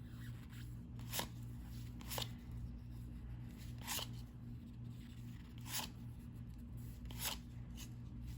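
1990-91 NBA Hoops cardboard trading cards being slid off the stack and flipped one at a time: five short, soft swishes a second or two apart, over a steady low hum.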